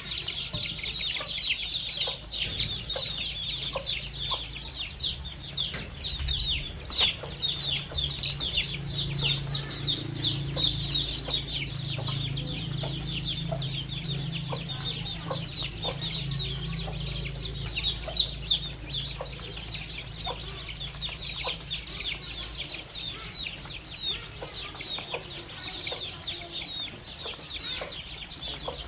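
A flock of baby chicks peeping nonstop: many short, high, downward-sliding peeps overlapping one another, over a low rumble.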